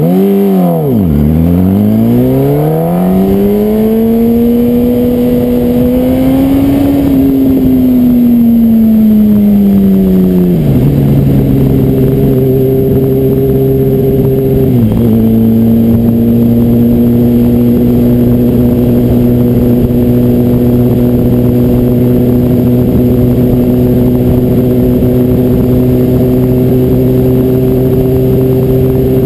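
Yamaha R1 inline-four engine pulling away from a stop. It revs up in first gear, then eases off, shifts up twice, about ten and fifteen seconds in, with a drop in pitch each time, and settles to a steady cruise. A steady wind rush runs underneath.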